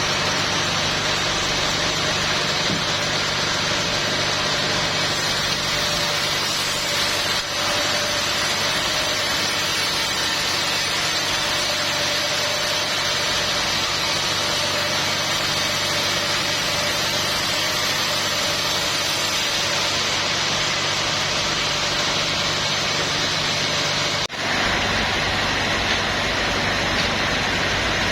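Sawmill machinery running steadily: an engine hum under a constant noise with a faint steady tone, with a brief drop about 24 seconds in.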